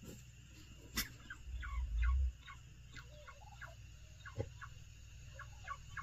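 Birds calling in a string of short chirping notes, with a sharp knock about a second in and a brief low rumble on the microphone just after it.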